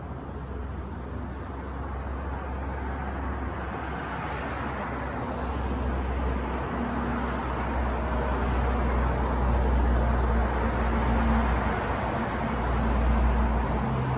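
City street traffic: a steady rumble of passing vehicles with a low engine hum. It swells louder about midway and again near the end as vehicles go by.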